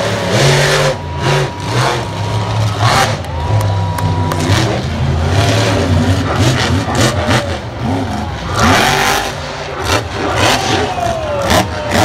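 Monster truck engine revving hard, its pitch climbing and dropping again and again, with sharp knocks scattered through.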